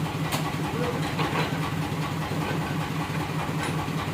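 Engine idling with a steady, even low throb. A short sharp click comes about a third of a second in.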